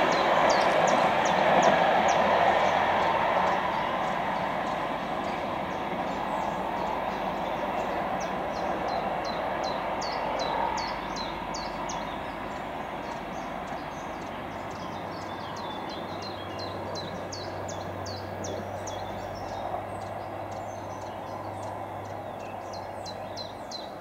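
Electric-hauled passenger train's coaches rolling away on the rails, their wheel noise slowly fading. A bird chirps rapidly and repeatedly throughout, and a low steady hum sets in about halfway.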